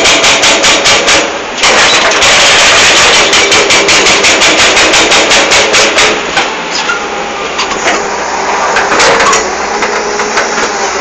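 Hydraulic rock breaker on a Hitachi UH07 excavator hammering rock in rapid, even blows, with a short break about a second and a half in. The hammering stops about six seconds in, leaving the excavator's engine running with scattered knocks.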